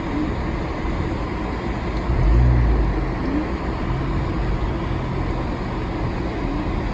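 Steady road and engine rumble of a vehicle driving on snow-covered streets, heard from inside the cabin, with a brief low swell about two seconds in.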